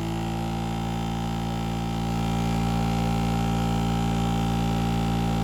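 Electric knife-grinding machine's motor running steadily: an even hum made of several steady tones.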